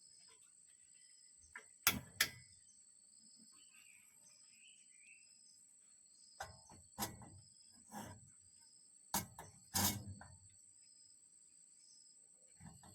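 Steady high-pitched insect chorus, crickets or cicadas, with about seven sharp knocks and handling noises scattered through it; the loudest come as a pair about two seconds in and again around ten seconds in.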